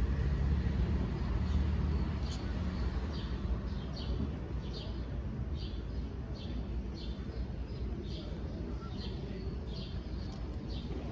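A small bird chirping over and over, short high chirps about every half second starting a couple of seconds in, over a steady low background rumble.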